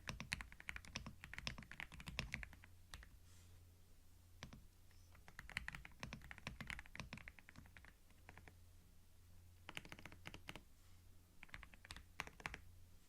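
Computer keyboard typing, recorded close up on a binaural microphone: quick runs of key clicks in bursts of a few seconds with short pauses between them.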